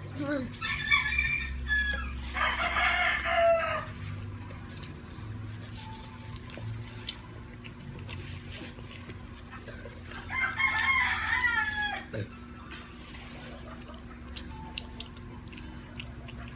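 A rooster crowing twice: one long crow near the start and another about ten seconds later.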